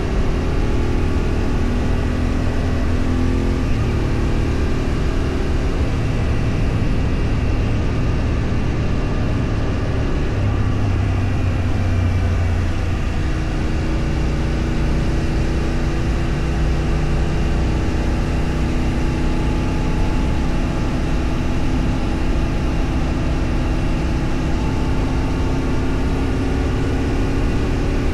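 Vehicle engine running on the move, with steady wind and road noise; the engine note shifts pitch a few times as the speed changes.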